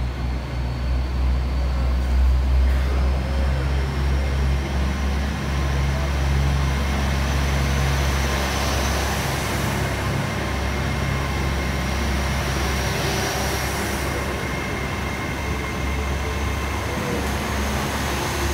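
LNER Azuma (Class 800 bi-mode) train pulling out under diesel power, with a steady low drone from its underfloor diesel generator engines. A high whine rises in pitch over the first several seconds as the train gathers speed, then holds steady.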